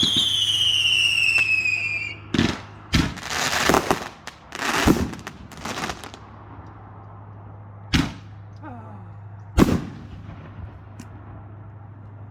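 Consumer fireworks going off. A whistle falls in pitch for the first two seconds, then comes a run of bangs and crackling bursts. Two separate sharp reports follow, about eight and nine and a half seconds in, over a steady low hum.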